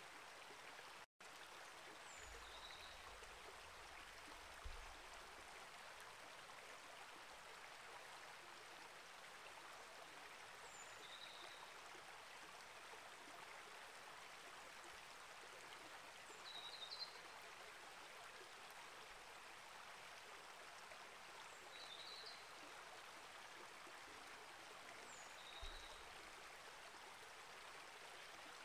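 Small rainforest creek flowing with a steady, even rush of water. Short bird chirps come a few times over it.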